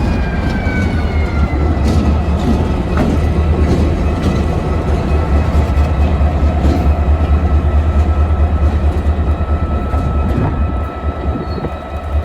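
A train passing close by with a heavy steady rumble and wheel clicks. A high whine falls in pitch over the first couple of seconds, then holds steady. The rumble eases off near the end.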